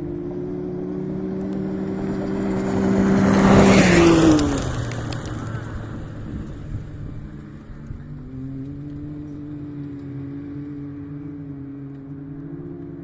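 An off-road vehicle's engine passes close by, loudest and dropping in pitch as it goes past about four seconds in, then fading. From about eight seconds in a second engine is heard, its note rising and then holding steady.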